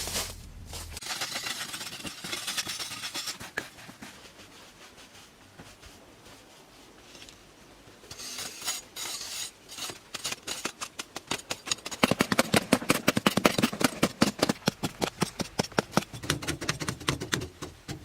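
Rapid scraping strokes, sparse at first and then fast and dense from about twelve seconds in.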